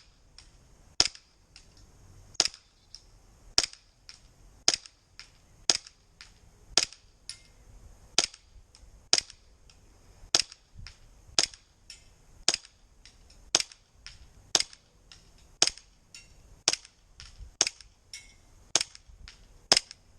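Elite Force Glock 19 airsoft gas blowback pistol, powered by green gas, firing single shots at a steady pace of about one a second, around nineteen in all. Fainter short ticks come between the shots.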